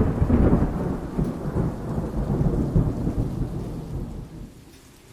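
Rolling thunder over rain: a loud low rumble that dies away about four and a half seconds in, leaving a faint steady rain hiss.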